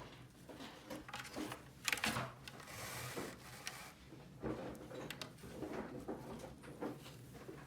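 Small plastic toy pieces being handled: irregular clicks and knocks with short bursts of rustling, the loudest cluster about two seconds in.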